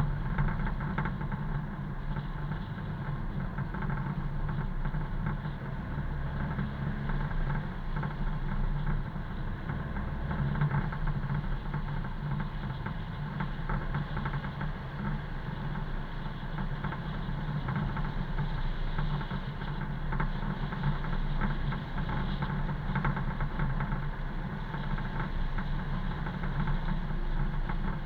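A car's engine running steadily with tyre and road noise, as the car drives along.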